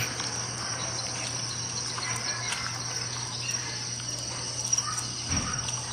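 Crickets chirping in a steady night-time chorus, with a low steady hum underneath.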